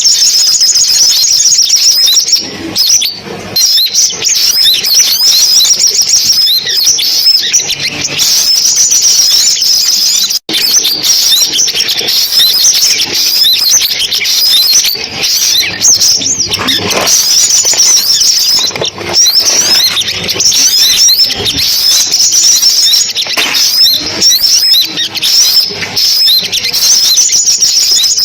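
Recorded sunbird calls: dense, rapid high-pitched chirping and trilling, a lure recording for a loudspeaker bird trap. It cuts out for a split second about ten seconds in.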